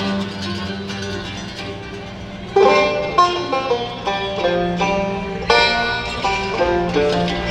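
Bluegrass string band playing the opening instrumental bars of an old-time song live: banjo picking over guitar and upright bass, with the playing turning suddenly louder and fuller about two and a half seconds in.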